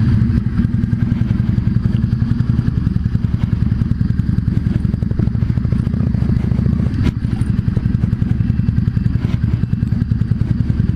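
Yamaha V Star 650's air-cooled V-twin engine running steadily at low revs, its firing pulses plain. A single sharp click comes about seven seconds in.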